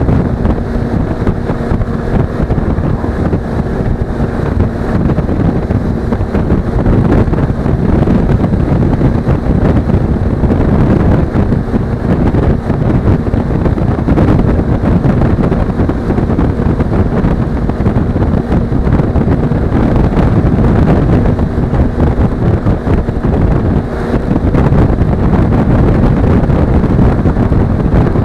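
Wind rushing over an action camera's microphone on a moving motorcycle, with the Suzuki V-Strom 250's parallel-twin engine running steadily underneath.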